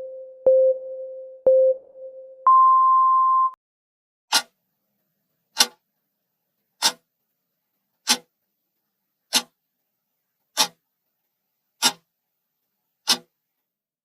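Timer start signal: two short beeps, then one longer, higher beep lasting about a second, followed by sharp clock-like ticks, about one every 1.25 seconds.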